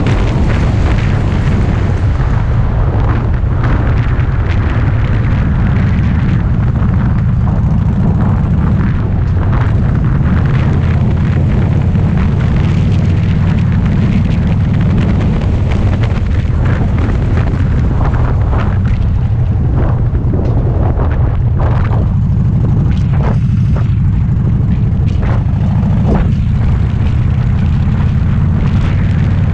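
Harley-Davidson FXDB Dyna Street Bob's V-twin engine running under way at road speed, a loud, steady low exhaust rumble.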